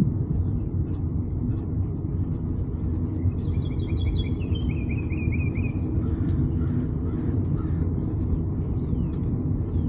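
Steady low rumble of wind buffeting the microphone on a moving bicycle, with a bird singing a quick run of descending chirps in the middle, followed by a brief higher note.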